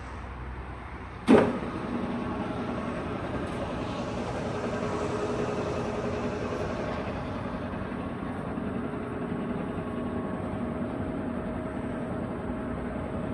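Cincinnati Tray Top engine lathe put into reverse: a sharp clunk about a second in as the drive engages, then the spindle and headstock gearing run steadily in reverse.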